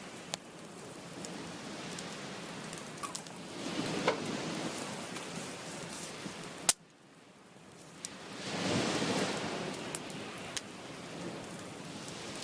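Wood fire crackling, with scattered sharp pops, the loudest a little over halfway through. Behind it runs a rushing wash of sea waves that swells twice and drops away abruptly right after the loudest pop.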